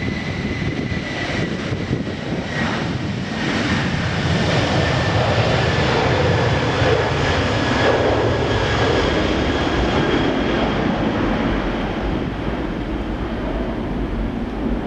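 Airliner engines running hard, with a steady high whine over a dense rushing noise. The sound grows louder over the first several seconds, then eases slightly.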